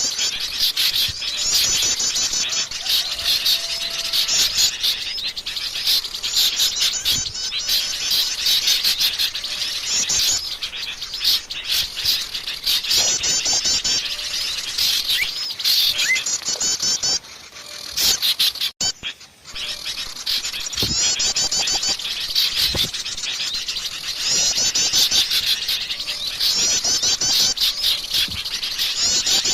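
Bird-lure recording of a noisy mixed chorus of small songbirds chirping and trilling, with fast repeated high chirp series overlapping almost without pause. It breaks off briefly about two-thirds of the way through.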